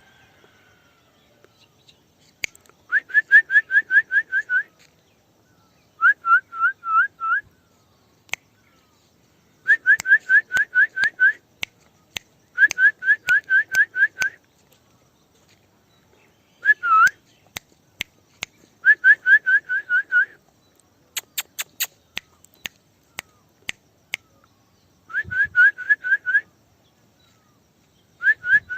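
Short bursts of quick, repeated rising whistle notes, five to seven at a time, repeated every few seconds: a person whistling to call a pet parrot to follow.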